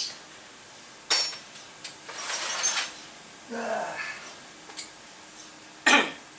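A few sharp knocks and clinks, the loudest about a second in and near the end, with a short rustling scrape between them.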